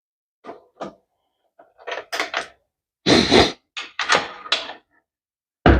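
Short knocks and clunks of tools and motorcycle parts being handled on a workbench, about a dozen separate hits, with the loudest about three seconds in and again near the end.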